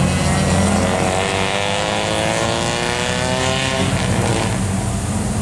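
Car engines and exhausts as cars pull away; one engine climbs steadily in pitch under acceleration for a few seconds, then drops away about four seconds in.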